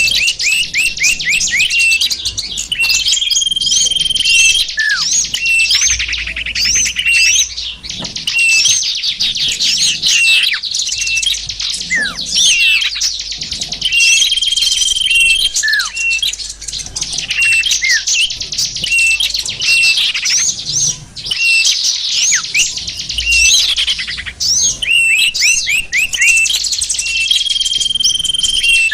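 Bird-lure recording of many small songbirds calling together: a dense, continuous chorus of rapid chirps, trills and short falling whistles, with a few brief held notes. It is the kind of noisy mixed-flock chatter played by bird catchers to draw small wild birds in.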